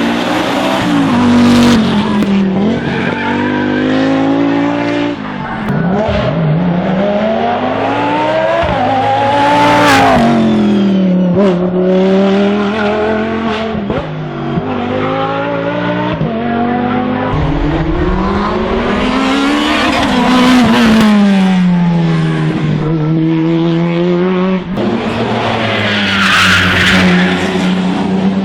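Racing car engine on a hillclimb run, its revs climbing and dropping again and again as it accelerates and lifts off for corners.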